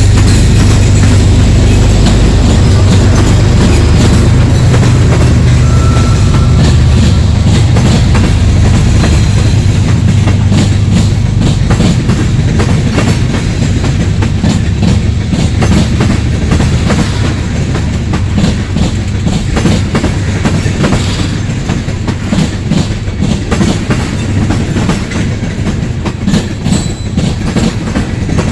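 Freight train cars rolling past, wheels clicking over rail joints over a steady heavy rumble that eases a little past the middle.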